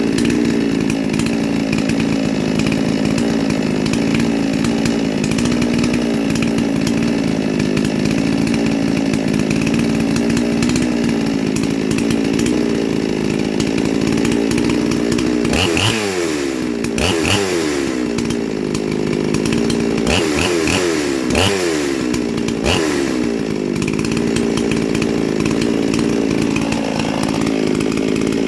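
Neo-tec NS872 two-stroke chainsaw, a Stihl 381 clone with a 380 clone cylinder and twin piston rings, idling steadily on its second heat cycle. About halfway in it is revved in about five quick blips, each rising and falling, then it settles back to idle.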